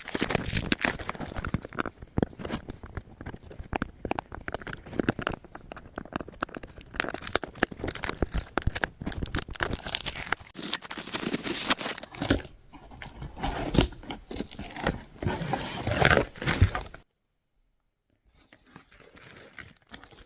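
Plastic packaging and tape being handled and pulled off a toy box: rapid crinkling, rustling and short tearing sounds, stopping about three seconds before the end.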